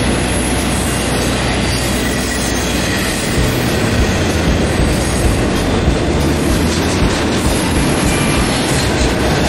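Two intermodal freight trains of container and trailer cars rolling past side by side, a loud steady rumble of steel wheels on rail. From about three seconds in there are irregular louder clacks.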